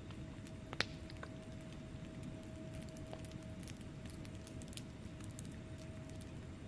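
Wood fire burning in a fireplace: a steady low rush with frequent small crackles of the logs, and one sharper pop about a second in.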